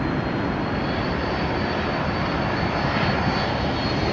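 Jet airliner engines running steadily: a broad rush of engine noise with a thin high whine over it that rises slightly.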